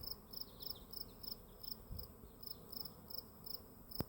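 Insects chirping in a steady, even rhythm of high-pitched chirps, about three a second, with a single sharp click near the end.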